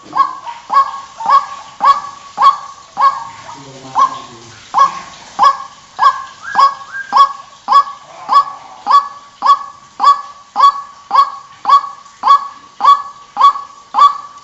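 White-breasted waterhen giving its loud, repeated croaking 'kruak' call, about two calls a second, with a short break about a third of the way in.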